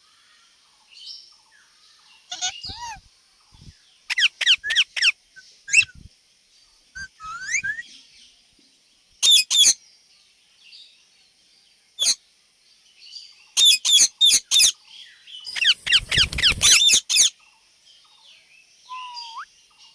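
Indian ringneck parakeet giving sharp, high calls, some alone and some in quick runs of three or four. A longer fast string of calls comes about three-quarters of the way in, and a short rising whistle near the end.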